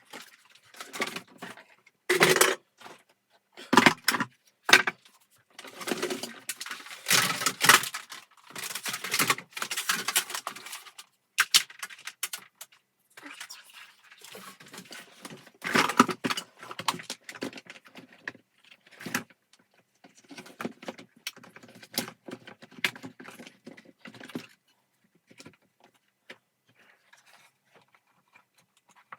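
Irregular clattering, clicking and scraping of vacuum cleaner parts being handled during disassembly and repair, with a few sharper knocks and a quieter spell near the end.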